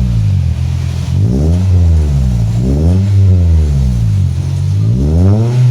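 Car engine blipped through an aftermarket stainless-steel racing exhaust, its pitch climbing and dropping back three times, the last rev climbing highest near the end.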